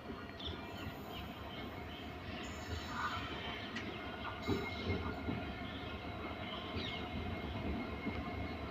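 Diesel-hauled passenger train running past, a steady rumble of wheels on the rails with a few faint knocks.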